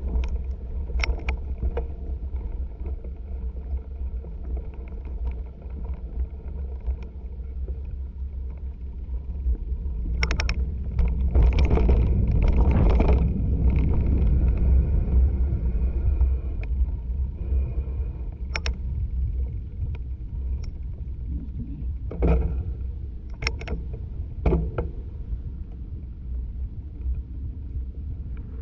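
Mountain bike riding a dirt trail, heard through an action camera's microphone: a steady low rumble of wind and tyre noise, with sharp clacks and rattles from the bike over bumps. The rumble grows louder about ten seconds in and eases after about sixteen seconds.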